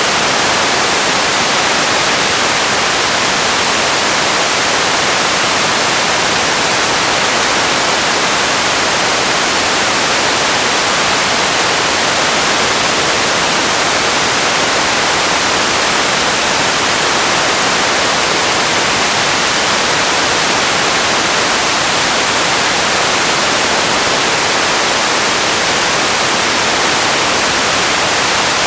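Steady, loud hiss like static or white noise, unchanging throughout, heavier in the treble than in the bass.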